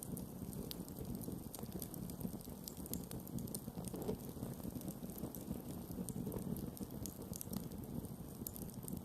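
Campfire burning: a low, steady rush of flames with scattered sharp crackles and pops from the burning wood.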